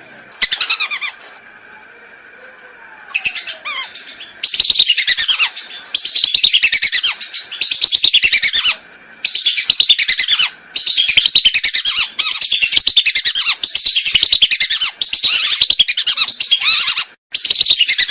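Lesser whistling ducks calling: about eleven bursts of rapid, high whistled notes, each phrase sliding downward in pitch, repeated with short pauses between them.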